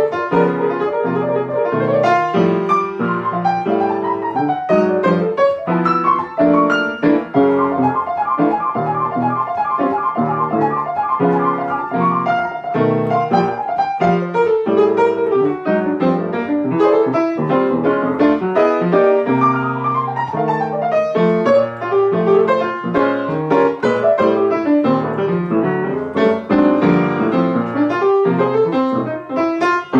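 Solo jazz piano: an improvised solo in a traditional jazz style, dense runs and chords played without pause.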